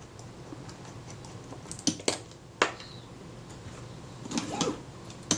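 Light metallic clicks and taps of small parts and tools being handled on a Kodak Retina IIIc camera body: a few sharp clicks about two seconds in and a short cluster near the end.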